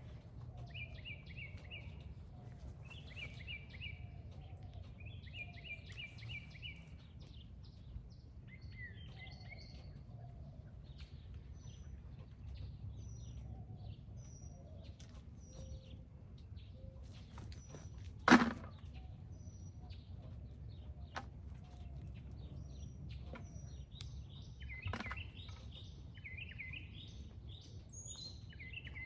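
Birds chirping and singing in short repeated trills over a steady low background rumble, with one sharp knock about two-thirds of the way through as the loudest sound.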